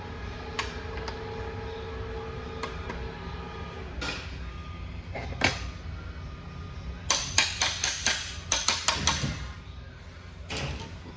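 Steel transmission parts clanking and ringing as they are handled during assembly of an Eaton Fuller RTO16909ALL front section. A few single clanks are followed, a little past halfway, by a quick run of about ten sharp metal strikes. A steady low hum runs underneath.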